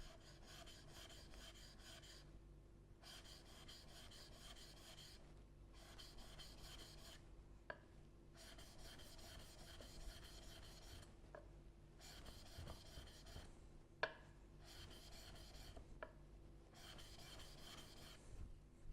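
Steel chisel bevel being worked back and forth on a 1000-grit sharpening stone, a faint rasping rub in runs of strokes lasting one to three seconds with short pauses between them and a few light clicks. This is the bevel being honed to raise a burr after the coarser 600-grit flattening.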